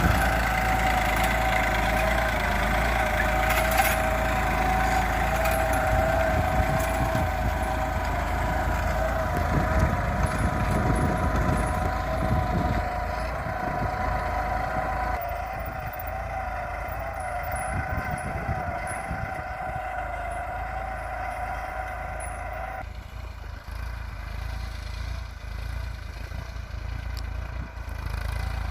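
New Holland 3230 TX Super Plus 45 hp tractor engine running steadily under load while pulling a two-bottom mouldboard plough. The sound grows gradually fainter, and the engine's steady note drops away near the end.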